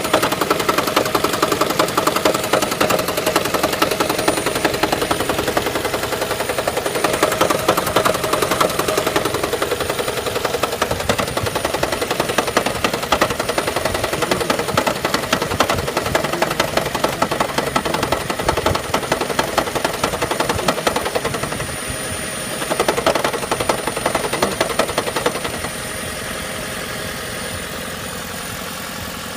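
Toyota Prius 30's 1.8-litre four-cylinder petrol engine running cold with a fast, loud knocking clatter, a sign of a fault the owner cannot identify. Near the end the knocking dies away, leaving a smoother steady engine sound.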